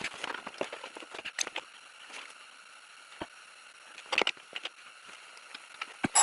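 Scattered light clicks and scrapes of hands and tools working a brake line fitting and hose clips, with a louder clatter about four seconds in.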